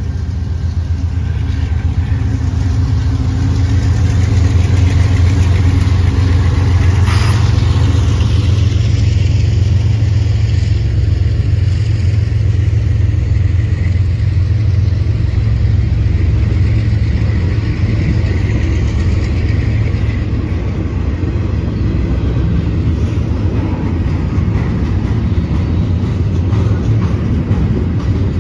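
Train rumbling past, a deep steady rumble that builds over the first few seconds and then holds, with one brief sharp sound about seven seconds in.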